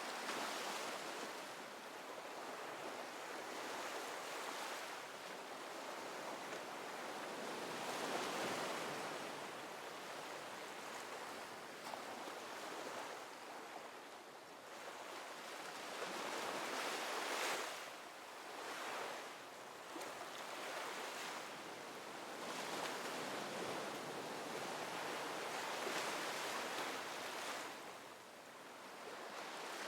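Ocean waves breaking and washing on a shore, the surf swelling and easing every few seconds in a steady rolling hiss.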